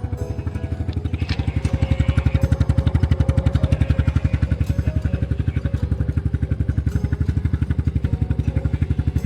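Honda Super Cub C125's single-cylinder four-stroke engine idling through a Yoshimura GP-Magnum Cyclone exhaust, with a steady, even beat of about ten exhaust pulses a second.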